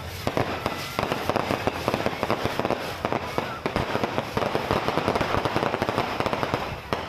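Aerial fireworks going off in rapid succession: a dense, continuous crackle of many small pops and bangs.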